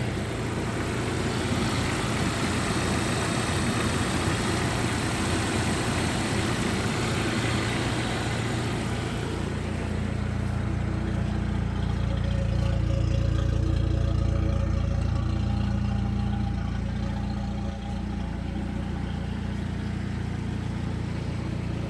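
1997 Jeep Wrangler engine idling steadily, still warming up after a cold start. About nine seconds in, the sound turns deeper, with a low hum coming forward and the hiss above it fading.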